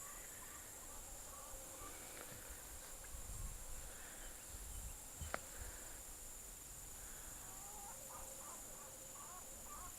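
Faint outdoor ambience: a steady high insect drone with soft, scattered bird chirps, and a single sharp click about five seconds in.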